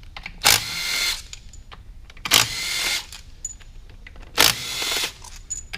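Cordless power tool spinning out the transmission case's Torx T45 bolts in three short bursts, each about half a second long and about two seconds apart.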